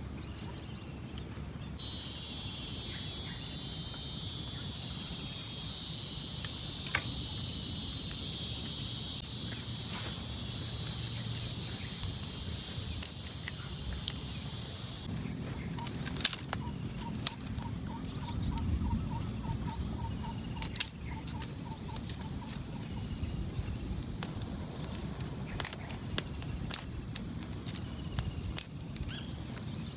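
A high, steady insect-like drone starts abruptly and stops about halfway through. Then come scattered sharp clicks and crackles, with a short run of quick, even pulses.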